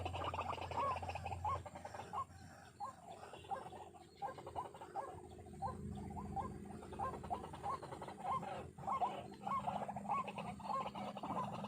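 White-breasted waterhen calling: a croaking note repeated steadily, about two a second.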